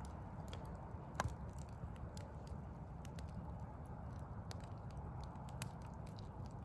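Backyard wood fire crackling, with scattered sharp pops and one louder pop about a second in, over a steady low rumble.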